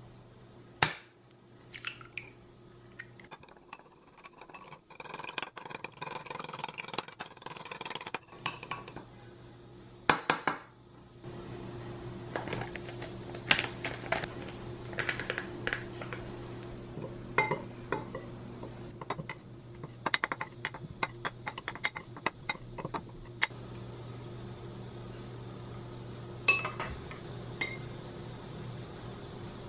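Metal spoon and metal chopsticks clinking and tapping against glass mixing bowls, in many sharp, separate clinks. A steady low hum comes in about a third of the way through.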